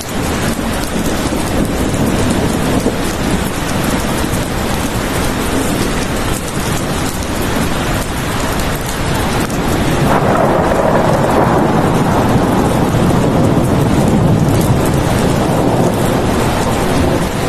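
Heavy rain falling steadily in a dense hiss. About ten seconds in it swells into a louder, deeper rumble of thunder that rolls on almost to the end.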